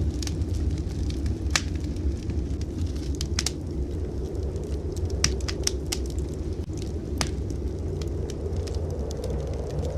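Wood fire crackling in a fireplace, with sharp pops at irregular intervals over a steady low rumble.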